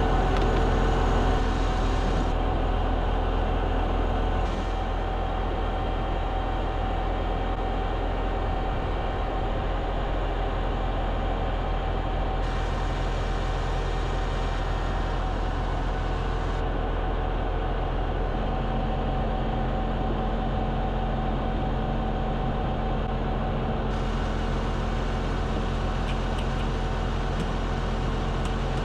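Heavy vehicle engine running steadily, a constant drone with a low rumble. The level drops a little about four seconds in and then holds even.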